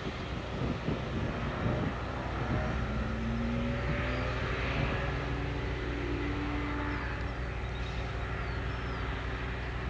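Engines of several Ferrari sports cars lapping a race circuit: a steady drone whose pitch rises and falls as the cars accelerate and lift through the corners.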